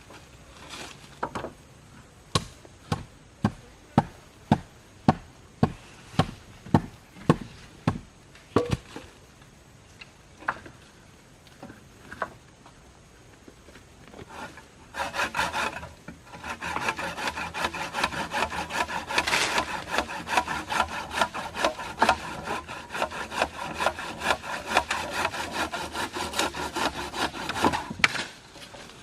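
A run of about fifteen sharp wooden knocks, roughly two a second, during the first nine seconds. From about fifteen seconds in comes a long spell of quick, rasping strokes of wood being sawn by hand.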